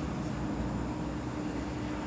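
Steady background noise: a low hum with a constant hiss, unchanging throughout.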